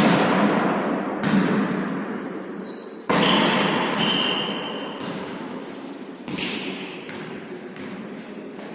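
Volleyball being hit and bouncing during a rally: sharp thuds about one to three seconds apart, each ringing out in a large echoing hall.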